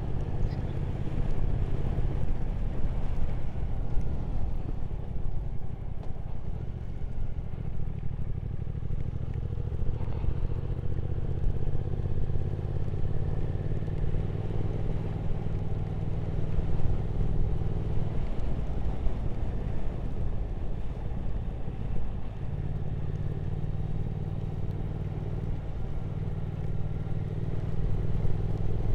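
Triumph Speed Twin 1200's parallel-twin engine running steadily under way. The engine note drops off about eighteen seconds in and picks up again a few seconds later.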